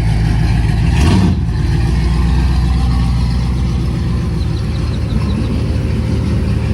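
Truck engine running loud and close, with a brief rev about a second in.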